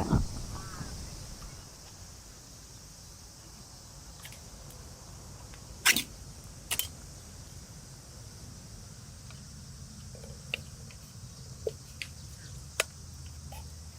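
Outdoor ambience with a steady high insect chirr, broken by a few sharp clicks and knocks, two louder ones about six and seven seconds in and smaller ones near the end.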